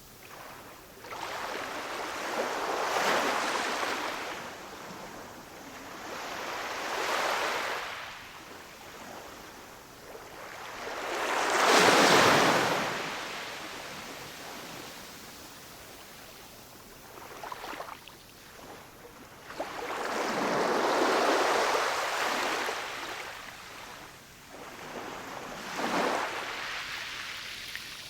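Ocean waves breaking and washing up a shore: about five surges that each swell and fade over several seconds, the loudest near the middle.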